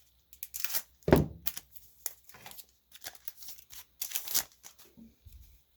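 Trading cards and their pack wrapper being handled: irregular short rustles, slides and crinkles, with a couple of louder strokes about a second in and near the middle.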